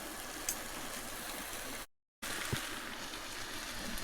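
A steady hiss, broken by a sudden moment of dead silence about two seconds in.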